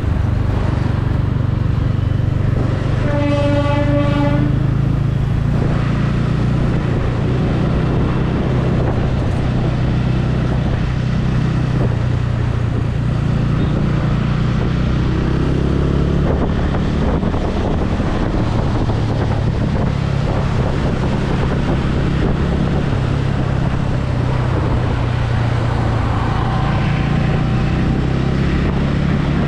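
Motorcycle engine running steadily under way, with wind and road noise on the helmet microphone. A horn sounds once for about a second and a half a few seconds in.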